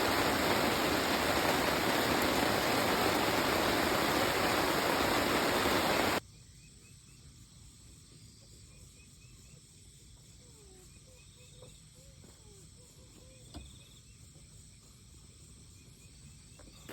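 Loud, steady rush of flowing water, like a nearby stream, for about six seconds. It then cuts off abruptly to quiet outdoor ambience with faint insect chirping and a single small knock.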